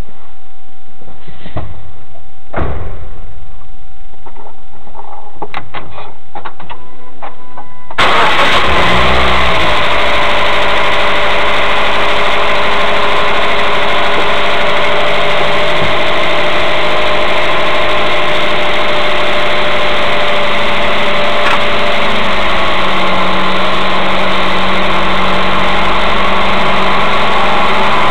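A few clicks and knocks, then a Mazda 3's engine starts about eight seconds in. Its revs fall back right after the start and it settles into a steady idle.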